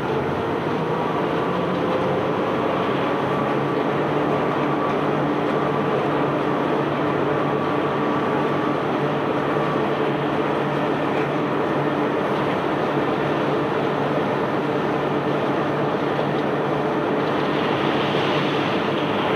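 A self-unloading barge's unloading machinery running steadily: a mechanical drone with a few steady hum tones under a rushing noise. A brighter rushing sound joins in near the end.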